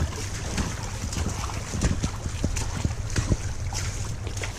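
Footsteps crunching along a woodland trail, with wind buffeting the microphone in a steady low rumble.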